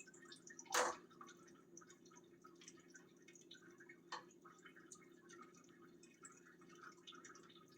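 Coolant dripping from the heater core lines into a bucket in small, scattered drips, with a sharper click about a second in and another around four seconds.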